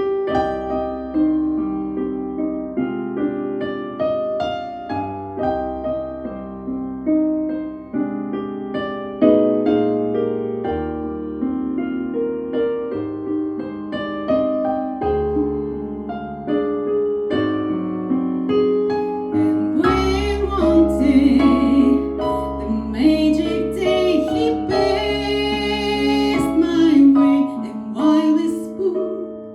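A piano plays a slow instrumental interlude, with chords over deep bass notes. About twenty seconds in, a woman's wordless, wavering vocal line joins over the piano.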